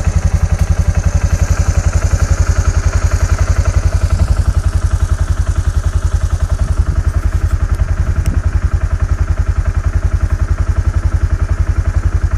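A vehicle engine idling with an even, rapid throb.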